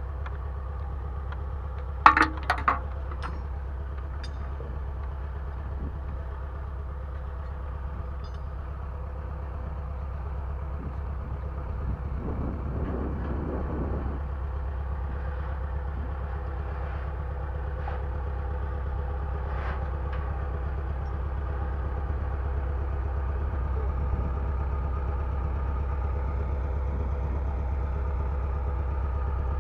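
A heavy machine's engine running steadily, with a cluster of sharp metallic clanks about two seconds in and a slight rise in level later on.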